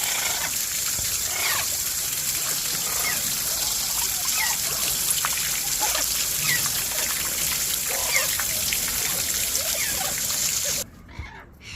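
Garden hose spraying water steadily over aviary cages, cutting off suddenly near the end, with small parrots giving short chirps through the spray.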